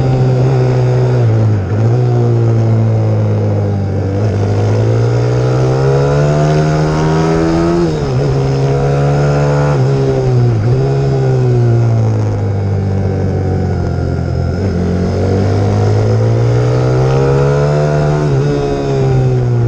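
Pit bike's single-cylinder four-stroke engine (YX150) at high revs under way, its pitch climbing in long sweeps and dropping off sharply several times as the throttle is closed or the gears change.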